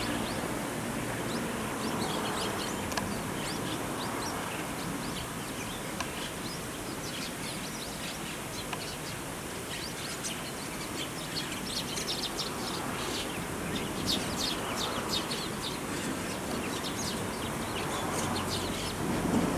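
Small birds chirping in many short, quick calls, busiest around the middle, over steady outdoor background noise.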